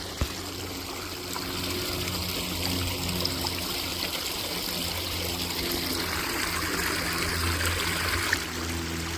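Water trickling steadily, with a faint low steady hum underneath.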